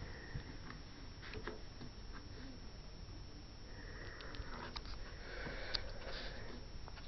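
Quiet breathing and sniffing through the nose, with a few small clicks and taps of plasticine and plastic moulds being handled on a table.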